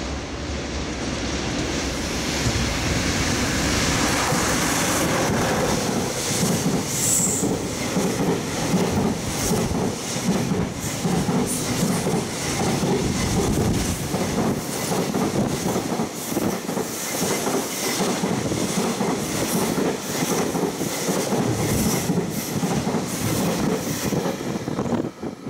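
A JR Freight EF66 electric locomotive and its container freight train pass close by at speed. The sound builds as the train approaches, then the wagons roll past with a steady, rapid clickety-clack of wheels over rail joints. It drops off suddenly as the last wagon clears, just before the end.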